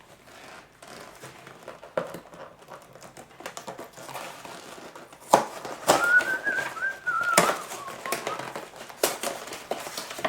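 Cardboard box and plastic-wrapped snack cakes being handled and opened: scattered crackles and sharp clicks of packaging. A short, high-pitched squeak lasts about two seconds, about six seconds in.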